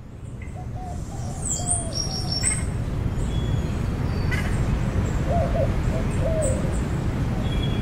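Ocean waves washing steadily, fading in over the first two seconds, with tropical birds calling over them: a low wavering call twice and short high chirps.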